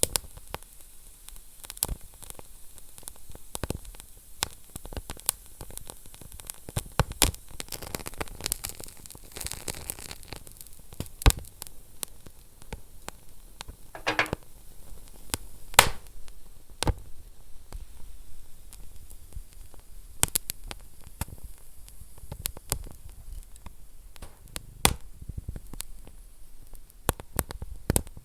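Wood fire burning in a fireplace: irregular sharp crackles and pops over a soft steady hiss, with a brief hiss about halfway through.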